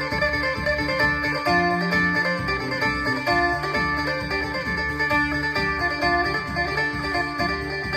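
Amplified electric phin (Isan lute) played through a Boss amplifier: a quick plucked melody over a steady ringing drone.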